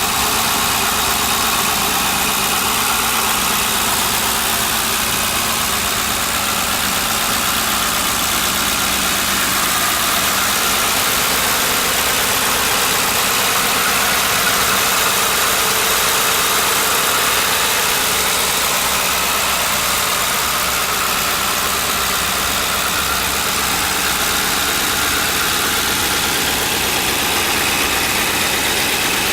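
2006 Ford Crown Victoria Police Interceptor's 4.6-litre V8 idling steadily, with an even hiss over the low engine note.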